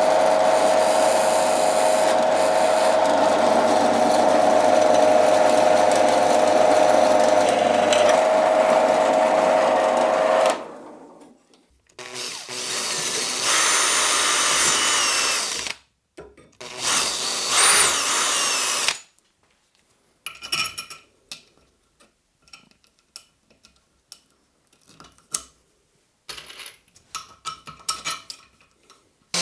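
Power drill working on a steel angle-iron bump stop: a long steady run of about ten seconds with a whining motor, then two shorter runs where the motor speed changes, followed by a string of short clicks and brief bursts.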